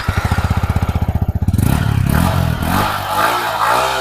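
Yamaha MT-15's liquid-cooled single-cylinder engine running, with a quick, even beat at first, then revved up and down with throttle blips from about a second and a half in.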